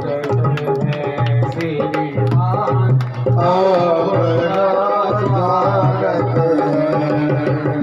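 Devotional bhajan music: a steady hand-drum beat with sharp strikes under a sustained, wavering melody.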